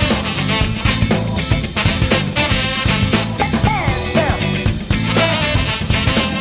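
Live band playing upbeat jazz-funk with drum kit, driving bass and melodic lines; a bending, sliding melody line stands out around the middle.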